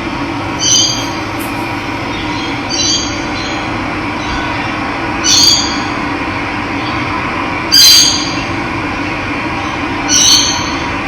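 Steady rush of running water, with a bird giving a short call five times, about every two and a half seconds, the fourth the loudest.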